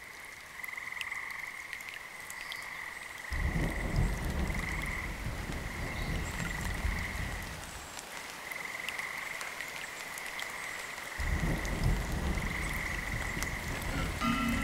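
Nature recording of frogs croaking, with a steady high-pitched chorus throughout and two long stretches of low rumbling noise. Right at the end, the bronze metallophone notes of a Balinese gender begin.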